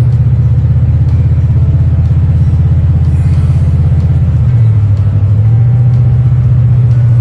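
1939 Dodge D11's flathead six-cylinder engine running with a loud, steady low rumble, its pitch dipping slightly about four and a half seconds in.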